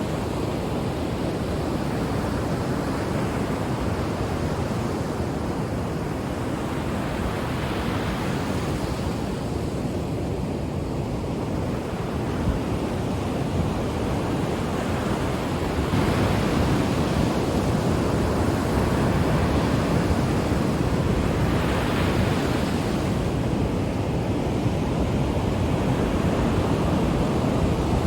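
Ocean waves breaking and washing on the shore as a continuous rushing surf, swelling and easing every several seconds, a little louder in the second half.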